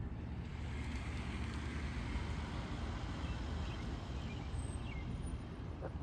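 A road vehicle passing, its rushing tyre and engine noise swelling over a second or so and fading away over a steady low rumble. A few faint, short, high notes sound near the middle.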